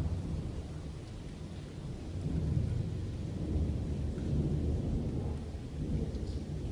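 Thunder rumbling in a long, rolling peal, deep and continuous, swelling about two seconds in and easing toward the end, over a faint hiss of rain.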